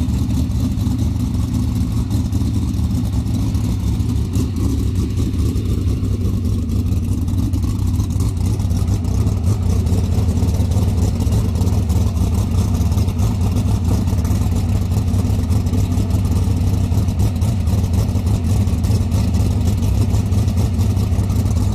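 Sprint car's V8 engine running steadily at idle on its first start-up after a fresh build, getting a little louder about a third of the way through.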